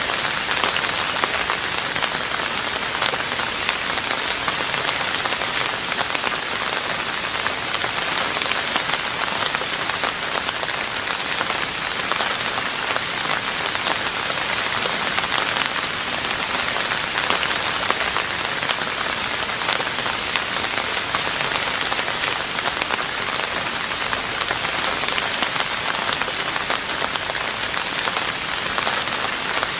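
Steady rain falling on a roof: a dense, even patter of many drops.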